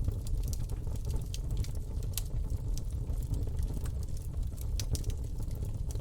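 Campfire burning, with frequent sharp crackles and pops over a steady low rumble of flame.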